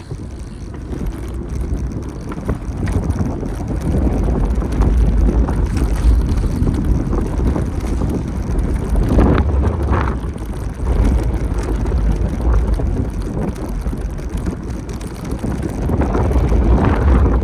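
Wind rumbling over the microphone of a camera on a moving bicycle, with a few brief sounds from the street about nine and ten seconds in.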